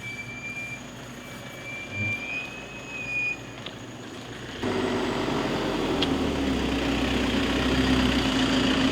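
Quiet evening air with faint high thin tones. About four and a half seconds in, a vehicle's engine noise starts abruptly and runs steadily nearby, idling.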